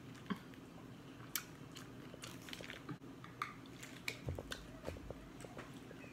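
A person eating seafood boil: quiet chewing and small mouth clicks scattered throughout, with a soft low bump about two-thirds of the way through.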